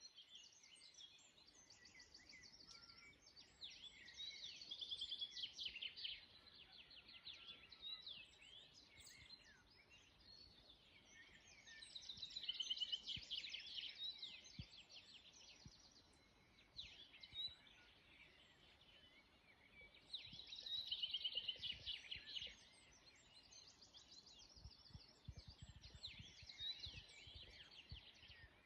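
Birdsong: bouts of rapid high chirps and trills, each a couple of seconds long, coming about every seven or eight seconds, with scattered single calls in between.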